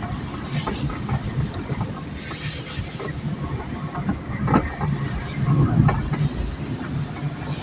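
Low, uneven rumble of a moving vehicle, with scattered short knocks and rattles.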